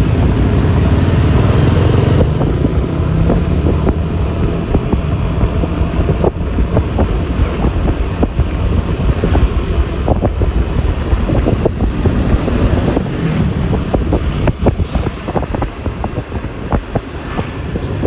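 Road noise on a moving Yamaha Lexi LX 155 scooter, wind buffeting the microphone over the rumble of the ride and traffic. The rumble is heaviest for the first two seconds, then turns choppier and eases off somewhat later on.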